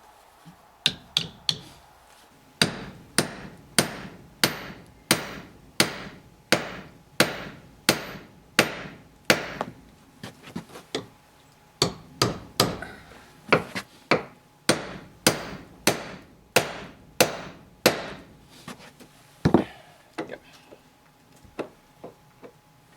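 Hammer driving a metal hinge pin into a pilot hole in a wooden door post: a steady run of blows, about three every two seconds, with a few lighter taps first and one last blow after a short pause near the end.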